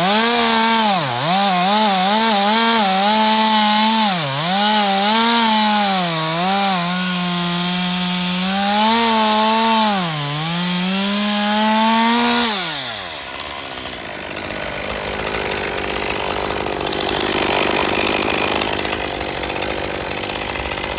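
Stihl MS 201 TC-M two-stroke top-handle chainsaw running at high revs, its pitch dipping and recovering several times. About twelve seconds in, the engine winds down and stops, and a softer, even noise follows.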